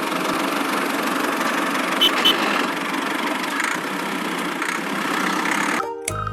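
Engine running steadily, with two short clicks about two seconds in. Music cuts in near the end.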